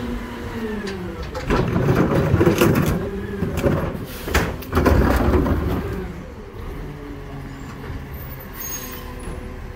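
NewWay rear loader garbage truck working a load of heavy trash: loud crunching and banging with the engine and hydraulics straining for the first half, then the truck running more quietly and steadily.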